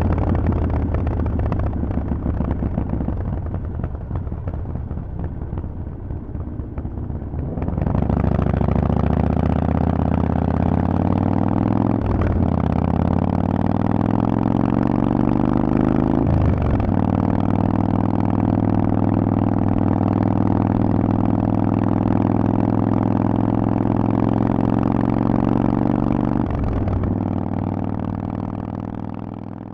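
Harley-Davidson Forty-Eight's air-cooled V-twin through a Vance & Hines exhaust. It runs at low revs, then opens up about eight seconds in and pulls hard, with its pitch climbing. There are short breaks in the pull about twelve and sixteen seconds in, like upshifts, then it holds a steady cruise, eases briefly near the end and fades out.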